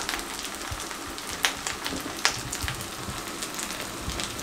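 Raw chapli kabab (a flat minced-meat patty) frying in shallow hot oil in a pan: a steady sizzle with scattered sharp crackling pops, two louder ones near the middle.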